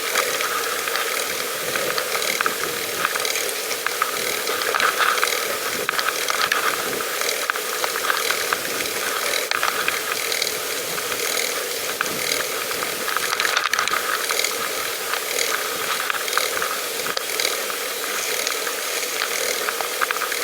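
Pedal bicycle being ridden: continuous rapid clicking and rattling from the bike's drivetrain.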